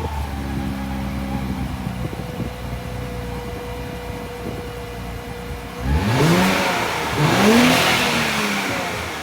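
Nissan Z's twin-turbo V6 through a Rae-motorsports axle-back exhaust, idling and then blipped twice, about six and seven seconds in, each rev climbing quickly and falling back to idle.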